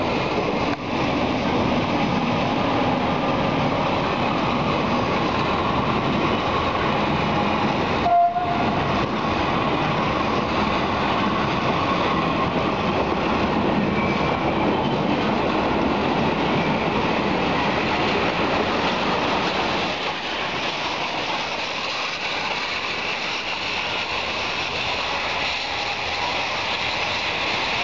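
A passenger train of vintage carriages, hauled by an FS D.445 diesel locomotive, rolling past at close range with a steady rumble and rattle of wheels on the track. A brief loud tone sounds about eight seconds in, and the sound becomes quieter about twenty seconds in.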